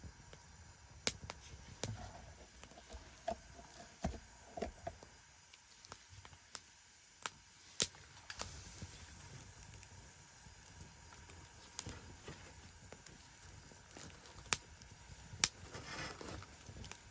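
Wood fire burning in a secondary-combustion fire pit, crackling with irregular sharp pops and a brief hiss near the end.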